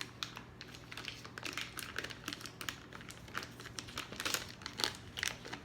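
Crinkling of a stick of butter's wrapper as it is unwrapped and handled, a run of irregular small crackles.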